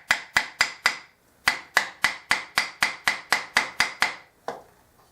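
Rapid light hammer taps on a thin metal putty knife, about four a second, with a short ringing note on each strike, driving the blade into the paper-and-glue joint between a waste block and a wooden bowl to split them apart. The tapping breaks off briefly about a second in and ends with a last tap near the end.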